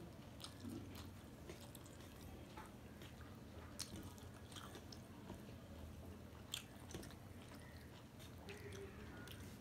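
Faint chewing of a mouthful of rice and leafy-greens chorchori with beans, eaten by hand, with scattered soft mouth clicks over a low steady hum.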